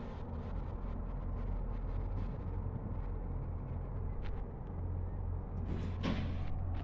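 Garbage truck engine running with a steady low rumble, and a brief noise a little before the end.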